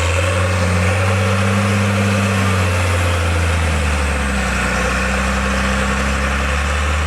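Heavy diesel engine of an MAN truck trial prototype running steadily with an even, low drone.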